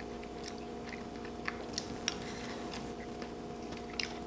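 Close-up chewing of food, a few faint, sharp wet mouth clicks, over a steady low hum.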